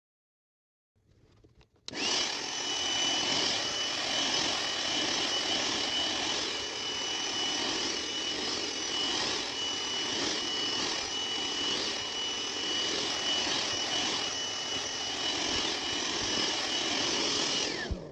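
BAUER 20V cordless hand vacuum switched on about two seconds in and running steadily, a rushing suction noise with a high motor whine through it, then switched off near the end. It is picking up cat hair and dirt.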